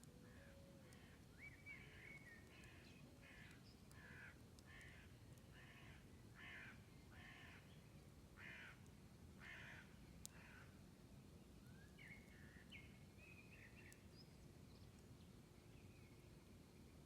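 Faint crow cawing: about a dozen harsh calls, spaced under a second apart, through the first ten seconds, then a few shorter, higher calls a little later. A faint low rumble runs underneath, with a few faint clicks.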